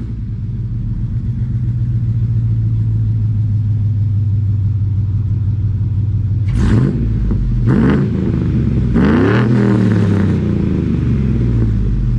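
2003 Chevrolet Silverado 2500's 6.0-litre V8 idling through long-tube headers and a catless stainless true-dual exhaust, blipped three times: two quick revs about six and a half and eight seconds in, then a longer rev about nine seconds in before it settles back to idle.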